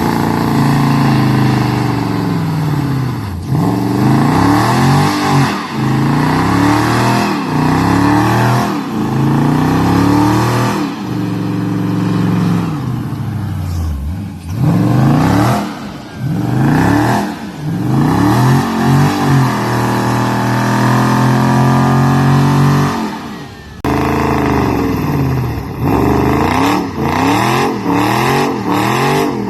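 Dodge Charger Scat Pack's 6.4-litre HEMI V8 with its mid-muffler deleted, revved again and again: the engine note rises and falls about once a second. A little past the middle it is held high for a few seconds, then drops briefly before the quick revs resume.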